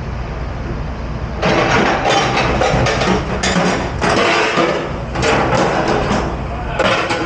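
Dishes and utensils clattering and knocking together as they are handled at a restaurant dish station, over a steady low machine hum. The clatter thickens about a second and a half in.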